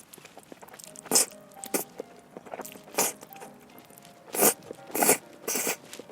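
Someone biting into and chewing crunchy food, with about six sharp crunches spaced unevenly, the loudest a little after one second and between four and a half and five seconds in.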